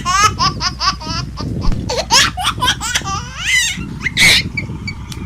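High-pitched laughter in quick repeated bursts, each one rising in pitch, growing more broken toward the end.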